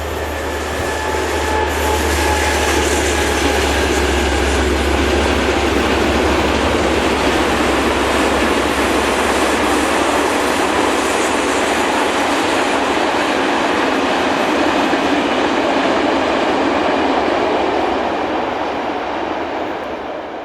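Train passing close by on the main line: a steady, loud rolling of wheels on rails, with a low hum that stops about halfway through, then the rolling fades near the end.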